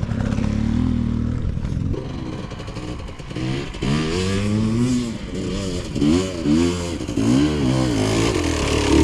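Enduro dirt bike engine being revved up and down as it climbs a steep forest hill. It runs fairly steadily for the first couple of seconds, then rises and falls in pitch again and again as the throttle is worked.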